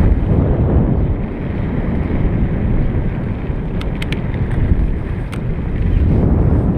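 Wind buffeting the microphone of a rider's camera while cycling: a loud, rough rumble that cuts off suddenly near the end, with a few faint clicks in the middle.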